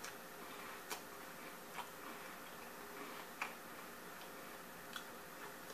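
Faint crunches of chewing crunchy cereal in milk with the mouth closed, a sharp crunch roughly once a second.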